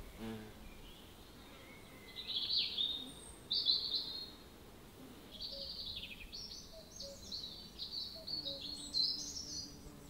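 A songbird singing: two short phrases, then a longer run of quick, varied notes from about five seconds in. A faint steady low hum comes in near the end.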